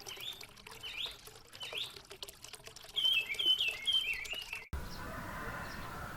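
Birds chirping, with a run of four or five repeated falling calls in the middle. About four and a half seconds in, the sound cuts off abruptly to a steady, even background noise.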